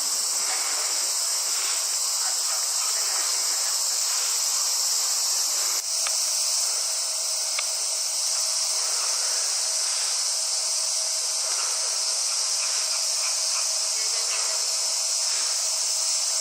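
Steady, dense chorus of summer cicadas, a continuous high buzz that does not let up, with a brief break about six seconds in.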